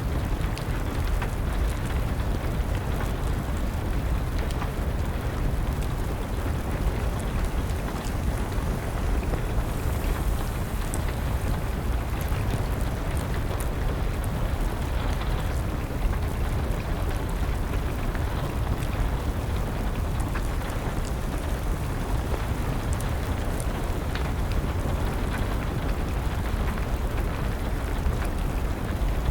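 Steady rain with the scattered pops and crackles of a wood fire over a deep, even rumble.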